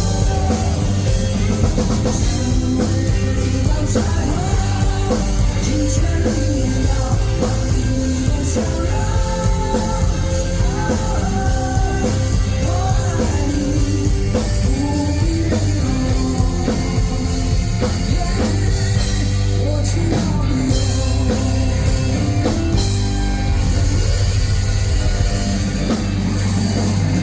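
Live rock band playing the instrumental close of a song, with drum kit, bass and guitar under a wavering melodic lead line.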